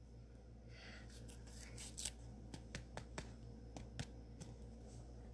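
Faint clicks and light rustling of a trading card being handled and slid into a rigid plastic top loader, a string of small ticks spread over a few seconds.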